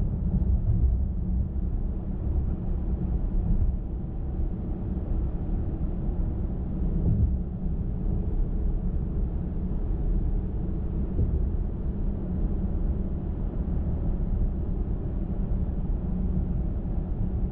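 Steady low rumble of a car driving at highway speed: tyre and road noise with engine hum.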